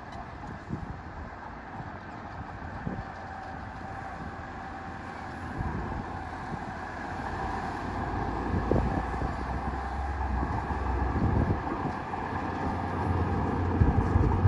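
Heavy diesel earthmoving machinery running, a low rumble that grows louder over the second half, with a few short knocks.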